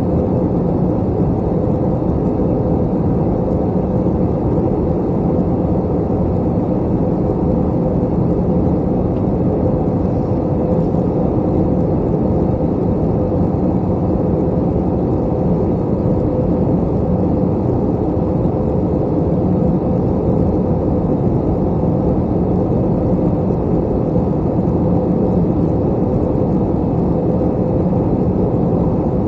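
Steady cabin noise inside an Airbus A321 airliner in flight: a constant drone of engines and airflow with a low, even hum.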